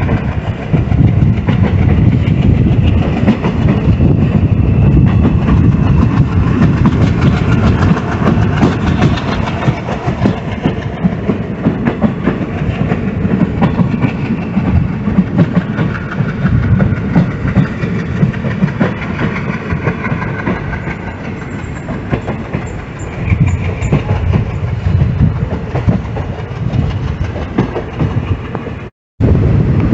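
Passenger train running, its wheels rumbling and clattering steadily on the rails. The sound cuts out briefly about a second before the end.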